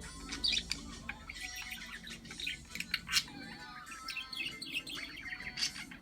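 Budgerigars chirping and chattering in many quick, short calls, with a few louder chirps about half a second and three seconds in. Music plays faintly underneath.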